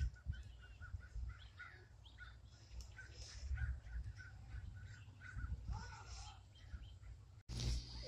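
Birds calling: a run of short, evenly spaced chirps at one pitch, with scattered higher chirps and a harsher, drawn-out call about six seconds in, over a low rumble.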